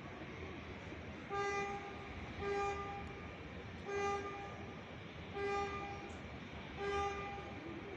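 A vehicle horn honking five times, each toot short and steady in pitch, about one every second and a half.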